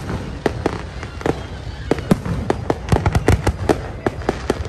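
Aerial fireworks display: a rapid, irregular string of bangs and crackles from bursting shells over a steady low rumble, the bangs coming thickest about three seconds in.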